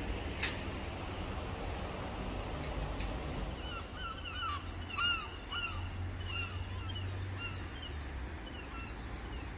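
A run of short, arched bird calls repeated several times, starting about three and a half seconds in, over a steady low background rumble. A single sharp click comes about half a second in.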